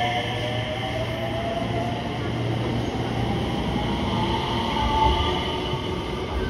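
Electric commuter train pulling out of the station platform, its motors whining in a slowly rising pitch as it picks up speed, over steady wheel and running noise.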